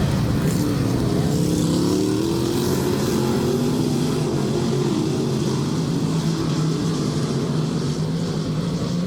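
Dirt-track race car engines running on the oval. Their pitch climbs over the first few seconds and then holds steady.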